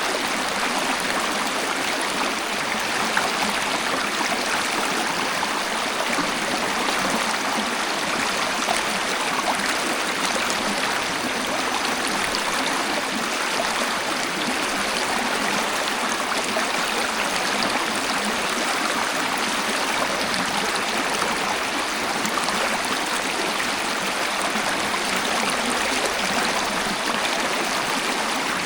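Waterfall: a steady, even rush of falling and flowing water that never changes, with no deep rumble.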